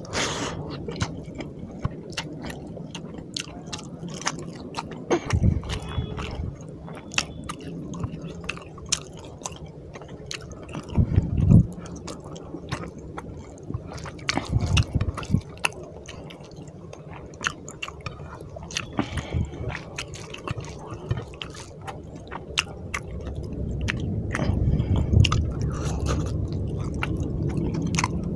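Close-miked wet chewing and lip-smacking of rice and pabda fish curry eaten by hand, full of small sharp mouth clicks. A few louder wet squishes come as fingers mix the rice and gravy on the plate.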